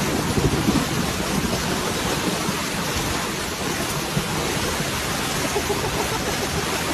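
Storm noise of heavy rain: a loud, steady, even rush, with some low rumbling in the first second.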